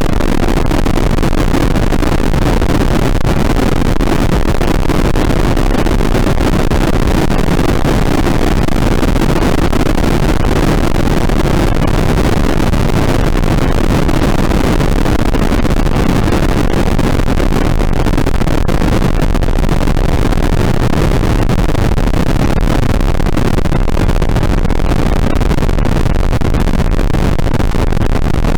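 Loud, steady wall of dense noise from an experimental noise composition, heaviest in the low and low-middle range, with no beat, melody or break.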